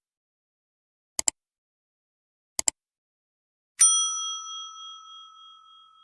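Two quick double clicks about 1.4 s apart, like a clock's tick-tock, then a single bright bell ding about two-thirds of the way through that rings on and fades away. The silence around them suggests an edited-in sound effect.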